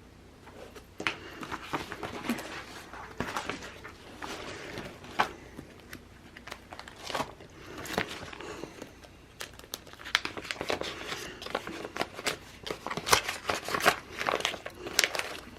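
Sticker sheets and planner pages being handled: paper and sticker backing crinkling and rustling, with many short taps and clicks that grow busier in the second half.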